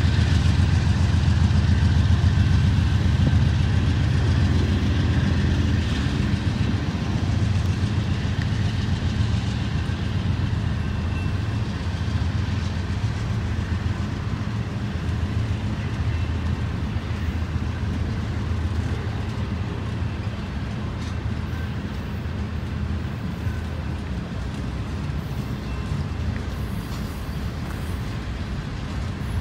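Double-stack intermodal freight train rolling past, a steady rumble of wheels on rail. A low diesel engine drone from the departing locomotives is strongest at first and eases off over the first several seconds.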